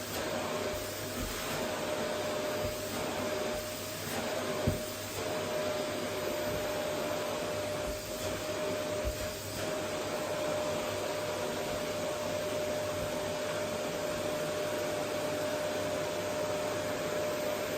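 Vacuum cleaner running steadily: a constant rushing airflow with a steady motor whine. A single brief knock comes about four and a half seconds in.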